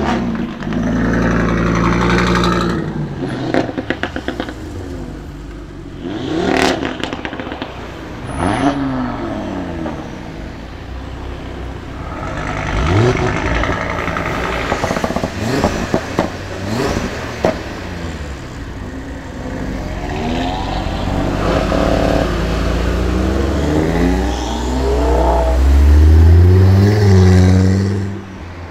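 Audi RS3 turbocharged five-cylinder engines revving and accelerating away one after another, the pitch climbing and dropping with each rev and gearshift. Sharp pops and cracks come between the revs, and the loudest, deepest pull comes near the end.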